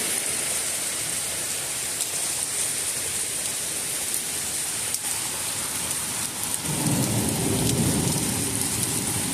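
Heavy rain pouring steadily in a thunderstorm, with a low rumble of thunder rolling in about two-thirds of the way through.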